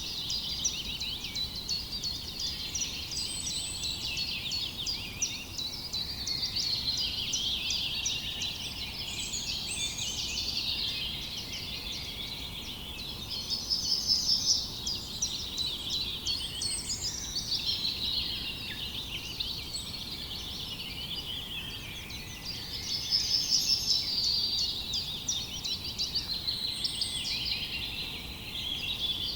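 Chorus of many small songbirds chirping and singing together, dense and unbroken, with louder rapid trills about a third of the way in and again past the three-quarter mark.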